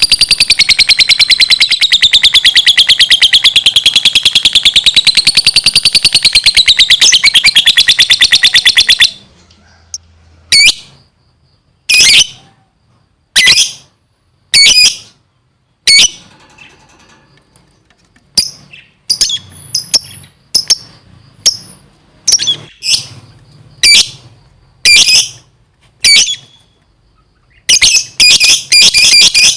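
Lovebird singing: a loud, rapid, continuous chattering trill that wavers up and down in pitch for about nine seconds. Then it breaks off into single sharp, high chirps roughly once a second, ending in a quick run of chirps.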